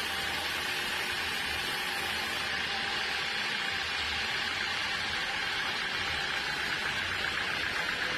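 Sawmill saw running through a teak log: a steady, even cutting hiss with a faint held whine in it, unbroken throughout.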